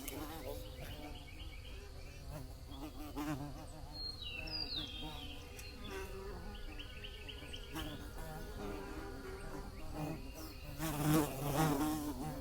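Bees buzzing in flight, their drone wavering in pitch as they move about, with one buzzing louder and closer about eleven seconds in.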